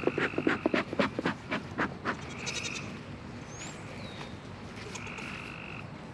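A goat bleating twice, two held, wavering calls about two and three seconds apart. They follow a quick run of clicks and rattles in the first two seconds.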